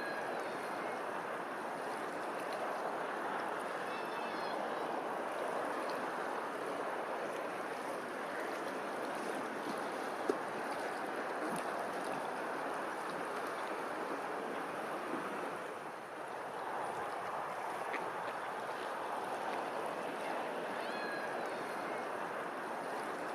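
A bird chirps faintly a few times, with short high chirps at the start, about four seconds in and near the end, over a steady rushing noise like running water or a fan. A single sharp click comes about ten seconds in.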